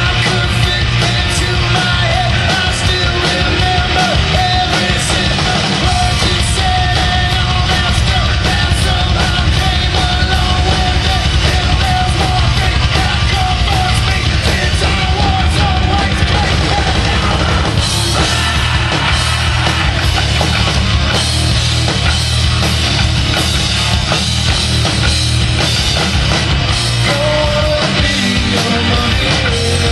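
A rock band playing loud, fast punk-rock-style music, with a wavering melodic line through roughly the first half.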